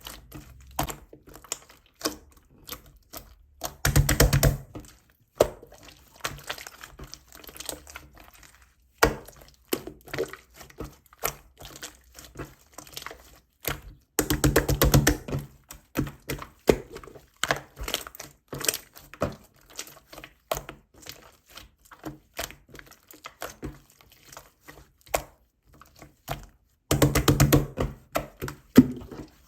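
Pastel macaron slime being squeezed, poked and stretched by hand: a steady stream of small sticky clicks and crackling pops, with three louder stretches of dense squishing about four seconds in, near the middle and near the end.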